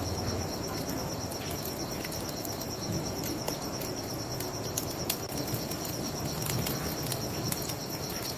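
Crickets chirping in a steady, rapidly pulsing high trill, with scattered sharp crackles and pops from a wood fire over a low rushing background.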